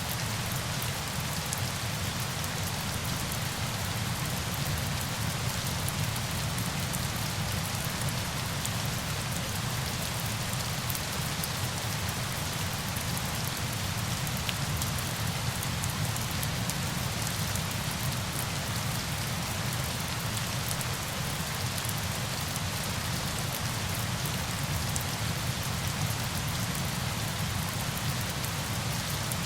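Steady falling water, a dense, even hiss with fine droplet ticks in the highs and a low rumble underneath, unchanging throughout.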